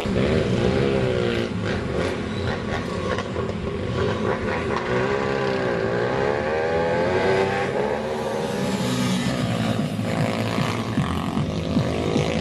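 Several pit bike engines racing together, their pitch rising and falling as the riders rev up and back off through the laps.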